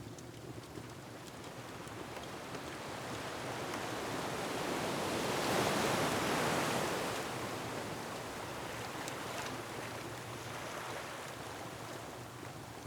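Ocean surf: a wave swells up to a peak about halfway through and then washes back down. Faint crackling of a wood fire runs underneath.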